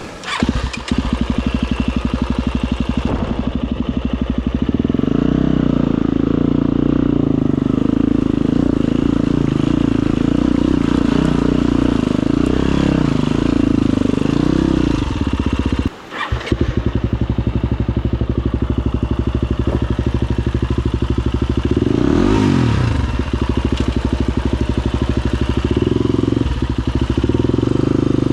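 Husqvarna FE250 four-stroke single-cylinder dirt bike engine running at low, steady revs. It drops out for a moment about 16 s in and picks up again, and around 22 s the revs dip and climb back.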